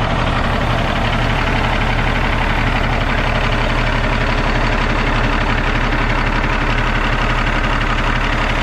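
Cummins ISX diesel truck engine idling steadily, heard up close at its open oil fill with the cap off. Excessive crankcase blow-by is puffing out of the fill, which the owner takes as compression getting past into the crankcase and a sign the engine needs a rebuild.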